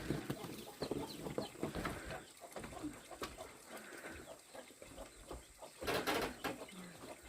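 Chickens clucking softly, with scattered small clicks and a brief noisy burst about six seconds in.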